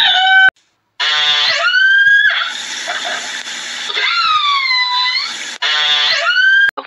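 An animal's high cries, several drawn-out calls that slide up and down in pitch, broken by a brief silence about half a second in.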